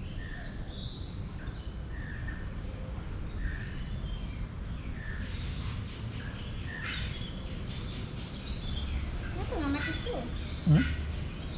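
Birds chirping in short calls about once a second over a steady low background noise, with a person's voice briefly near the end.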